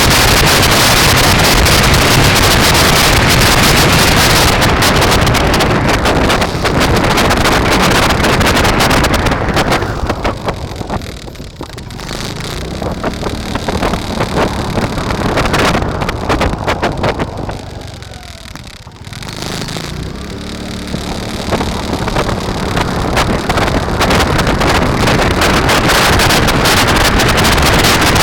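Wind buffeting the microphone of a camera riding along on a moving bicycle, a loud steady rush that eases twice, briefly, before building back up.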